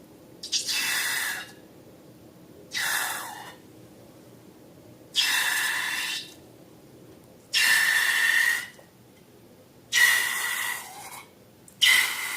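Air hissing out of a balloon in six short bursts, each about a second long with a faint squeal in it.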